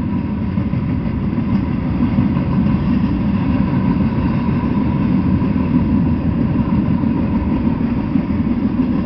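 Freight train of loaded bulkhead flatcars rolling past: a steady, loud rumble of wheels on rail, with a faint thin whine held throughout.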